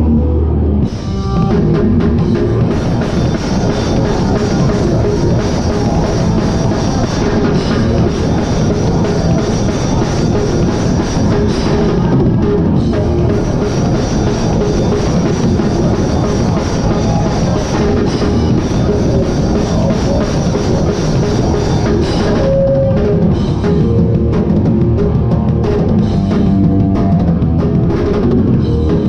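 Hardcore band playing loud live, with the drum kit to the fore as heard from the drummer's seat: kick drum, snare and cymbals over distorted guitars and bass, after a brief break about a second in.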